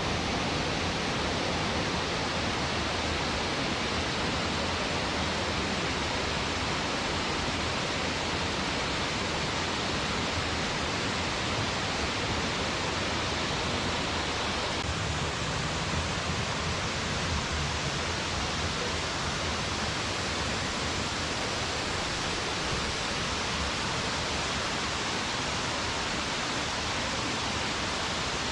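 Steady rush of falling and cascading stream water from a forest waterfall, with its tone shifting slightly about halfway through.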